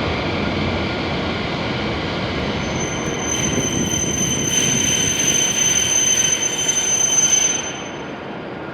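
E7-series Shinkansen train rolling slowly into the platform with a rumbling run, its brakes setting up a high, steady squeal from about three seconds in. The squeal and the rumble fall away near the end as the train comes to a stop.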